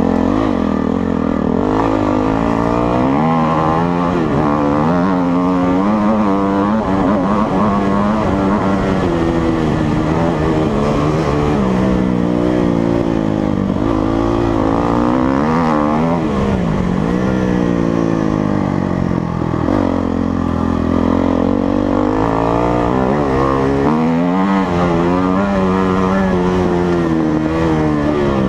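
Motocross motorcycle engine running hard, its pitch rising and falling over and over as the throttle is opened and closed.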